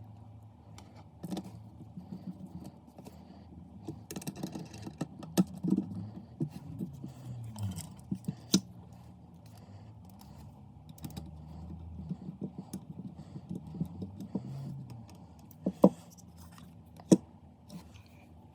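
Scattered clicks, knocks and light clatter, like small parts and tools being handled, over a low background rumble; two sharp knocks near the end are the loudest.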